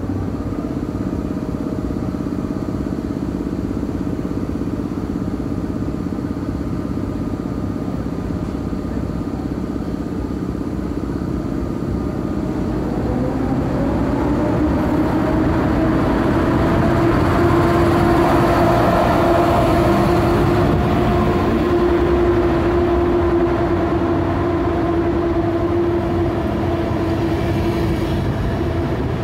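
A train running at the station with a steady mechanical hum. About halfway through, its motor tone rises in pitch, then holds steady as the sound grows louder.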